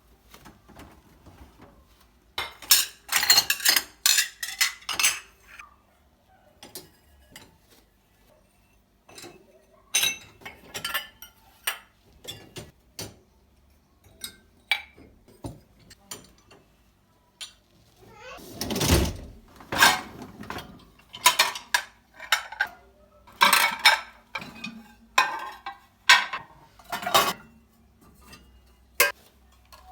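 Dishes and cutlery clattering and clinking, handled in irregular bursts, with one heavier knock a little past the middle.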